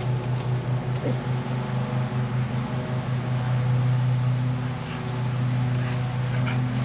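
Small engine running steadily, a low hum that pulses for the first few seconds and then evens out.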